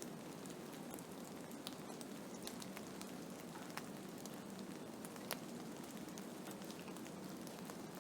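Blizzard ambience: a steady hiss with scattered light ticks, one more distinct tick about five seconds in.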